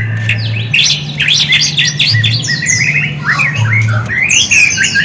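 Shama birdsong: a fast, varied run of sharp chirps, sweeping whistles and trills with brief pauses, over a steady low electrical hum.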